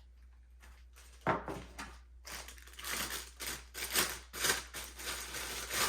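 Plastic wrapping crinkling and rustling as a vacuum part is unwrapped by hand, beginning with a sharp crackle about a second in and then crackling densely and irregularly.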